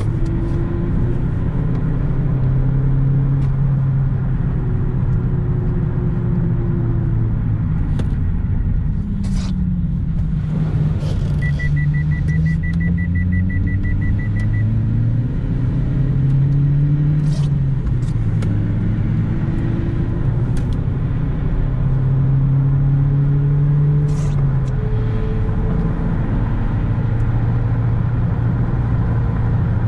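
Mitsubishi Lancer's 1.6-litre 4G18 four-cylinder engine pulling along with road rumble, its note rising and dropping several times. A short run of rapid high beeps comes about a third of the way in, and there are a few sharp knocks.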